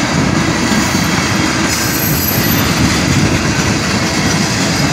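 Freight train cars, tank cars and a flatcar, rolling steadily past at close range: a continuous rumble and rattle of steel wheels on the rails, with a brief faint high wheel squeal about two seconds in.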